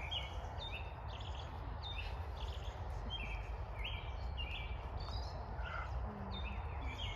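American robin singing: a run of short, whistled phrases repeated with brief pauses.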